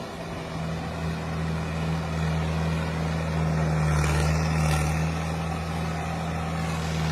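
Tractor engine running steadily under load with a low, even hum, growing a little louder partway through.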